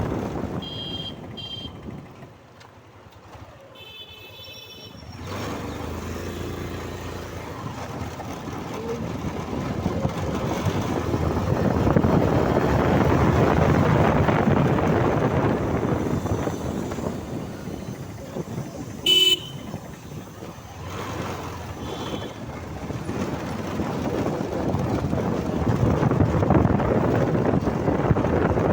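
Wind rushing over the microphone of a moving motorcycle, dropping off a couple of seconds in and then swelling again. Short vehicle horn toots cut through it: two quick ones right at the start, a burst around four seconds in, a loud one about nineteen seconds in, and a faint one a few seconds after that.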